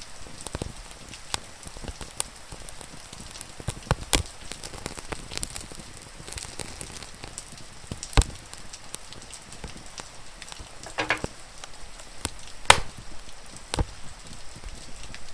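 Wood fire crackling with irregular sharp pops over a steady hiss of rain. The two loudest pops come about eight and twelve and a half seconds in.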